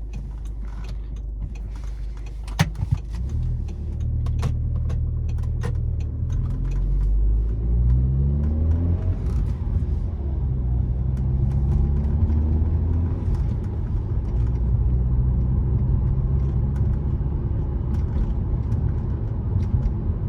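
Audi S3 8P's turbocharged four-cylinder heard from inside the cabin while driving off. The engine pitch rises from about six seconds in, drops at a gear change, then climbs again before settling to a steady cruise. A sharp click sounds about two and a half seconds in.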